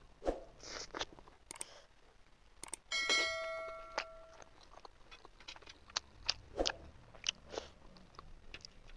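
Close-up eating sounds: wet chewing, biting and lip smacks as steamed chicken momos dipped in spicy chutney are eaten, heard as scattered sharp clicks. About three seconds in, a ringing chime sound effect sounds once and fades over a second or so.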